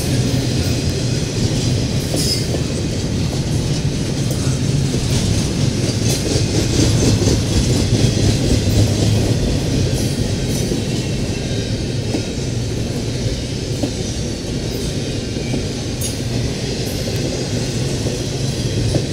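Double-stack intermodal well cars of a long freight train rolling past: a steady rumble of steel wheels on the rails, with a few faint clicks.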